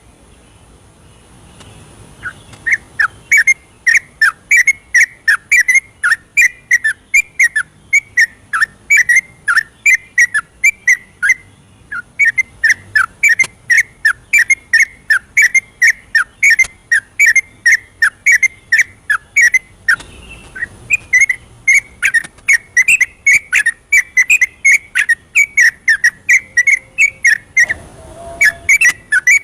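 Yellow-vented bulbul singing a long, rapid run of short whistled notes, about three to four a second, with a couple of brief breaks. This is the bird's full, continuous 'ropel' song, played as a lure to provoke other bulbuls into singing.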